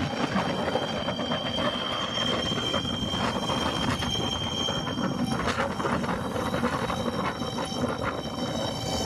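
Honda Unicorn motorcycle running with a rattling mechanical noise and a steady high-pitched squeal over it, the noise fault being shown on the bike.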